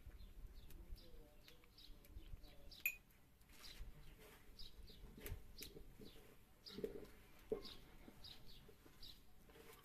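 Faint small-bird chirps, short and high, every second or so. Under them are soft handling sounds and a few light clicks and knocks as hands toss sliced liver in flour on a metal tray.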